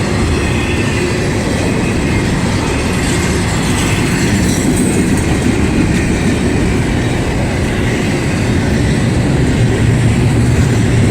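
Freight train cars rolling past at close range: a steady heavy rumble of steel wheels on rail, with clickety-clack over the rail joints and some faint wheel squeal.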